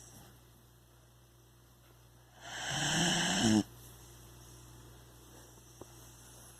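A dog snoring in its sleep: one loud snore about two and a half seconds in, lasting about a second, a buzzing rasp that rises in pitch at the end and cuts off suddenly.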